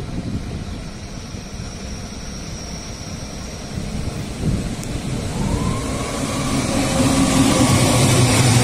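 Rhaetian Railway Ge 6/6 II electric locomotive hauling a train, its low rumble growing louder. From about halfway a traction-motor whine rises in pitch and then holds, over a deeper hum.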